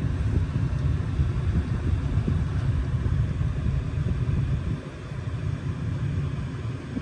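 Low, steady road and tyre rumble heard inside the cabin of a moving Tesla Cybertruck, with no engine note since the truck is electric; it eases a little about five seconds in.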